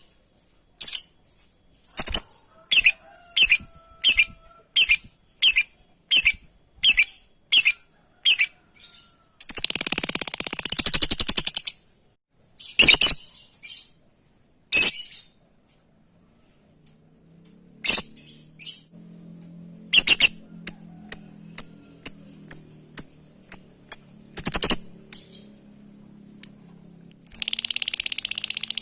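Lovebird calling to a companion: short, sharp chirps repeated about every two-thirds of a second, breaking into bursts of rapid chattering about ten seconds in and again near the end, with sparser chirps in between.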